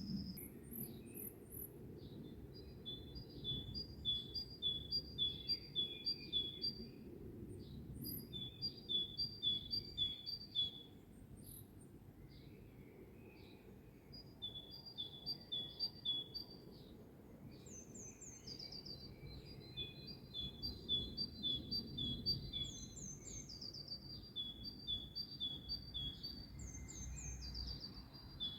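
Birds singing: one songbird repeats a two-note phrase, alternating a higher and a lower note, in runs of a few seconds with short pauses between. Another bird adds short high, falling notes in the second half, over a low, steady background rumble.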